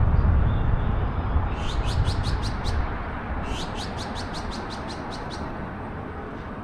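A bird calling in two quick runs of high, downward-sweeping chirps, about five a second, over a low traffic rumble that fades away.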